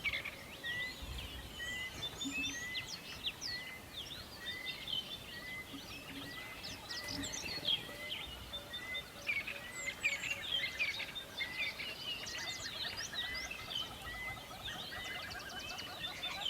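Several birds chirping and calling together in a morning chorus, many short overlapping chirps and trills, with one short note repeating evenly about every two-thirds of a second.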